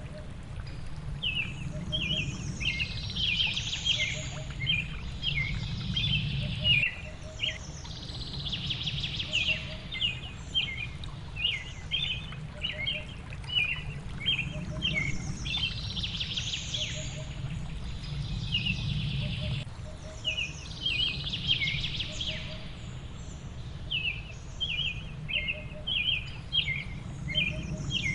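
Songbirds chirping in quick runs of short, high notes, over a steady low rush of water.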